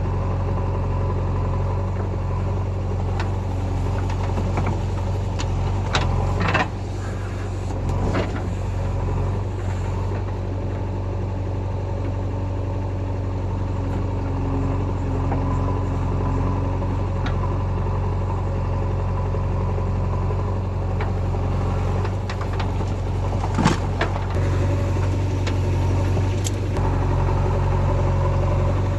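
Heavy diesel engine running steadily, with a few sharp metallic knocks, the loudest about three quarters of the way through.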